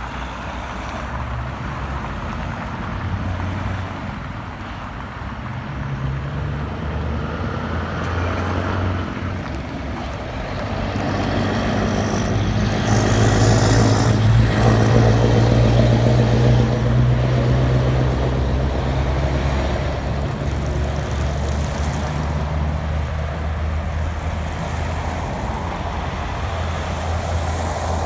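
Scania R560 truck's V8 engine running through loud exhaust pipes, a deep steady rumble whose pitch shifts up and down; it grows louder about halfway through, then eases slightly and holds.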